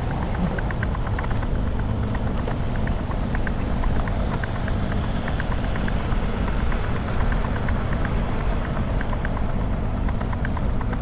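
Diesel truck engine idling: a steady low rumble with faint, irregular light ticks over it.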